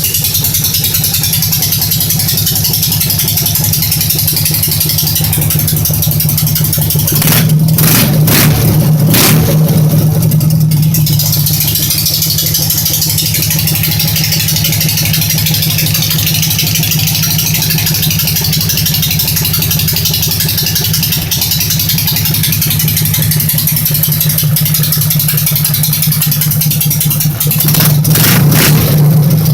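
Dnepr motorcycle's flat-twin four-stroke engine idling steadily, revved up briefly about seven seconds in and again near the end.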